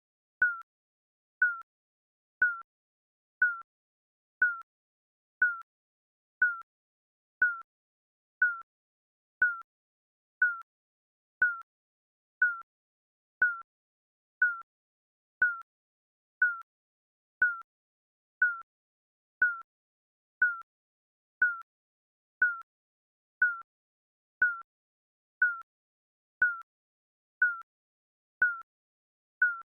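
Digital countdown timer beeping: a short, high electronic beep once a second, evenly spaced, with silence between beeps.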